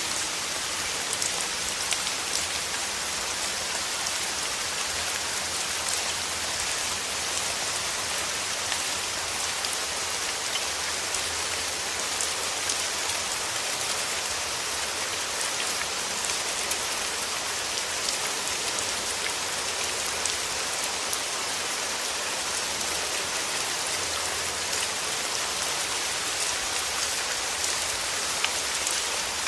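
Steady rain falling, with a dense hiss of many small drop ticks and no let-up.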